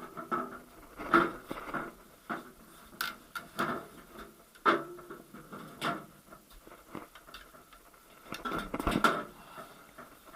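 Metal tools and gearbox parts being handled: irregular clinks and knocks of metal on metal, with a quick run of clatter near the end.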